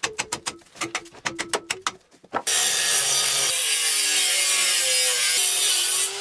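Rapid ratcheting clicks of a hand tool for about two seconds, then a loud, steady hissing whir, like a running power tool, with a faint tone that wavers slowly.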